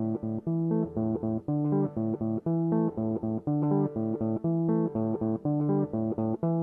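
Instrumental music: a riff of short, evenly repeated plucked guitar and bass notes.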